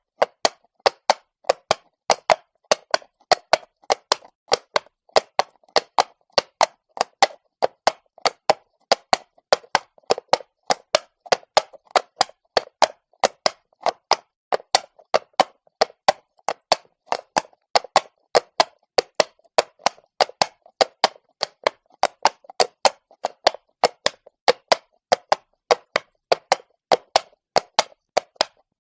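Horse's shod hooves walking on cobblestone, each hoof striking with a sharp, hollow clop in a steady four-beat walking rhythm of about two to three strikes a second.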